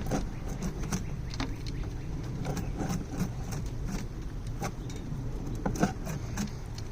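Scattered light clicks and knocks of wooden beehive frames being handled and set into the hive body, over a steady low rumble; the sharpest knock comes about six seconds in.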